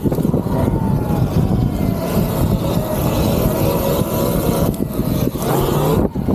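Electric dirt bike riding: wind buffeting the microphone, with the electric motor's whine rising and falling underneath.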